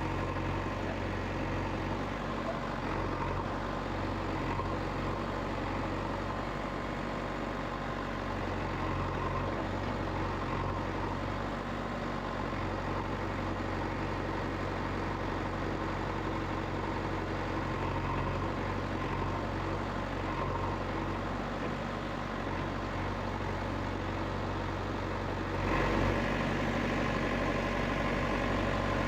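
A heavy vehicle engine running steadily, with a low, even hum; it gets a little louder near the end.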